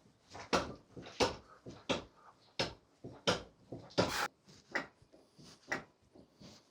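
A regular series of short, sharp knocks, about three every two seconds, each with a slight ring after it.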